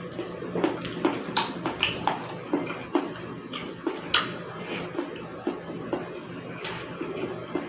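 Close-up mukbang eating sounds: chewing and mouth clicks at about two a second, with a few sharper, brighter clicks mixed in, as a person eats pork sinigang soup with rice.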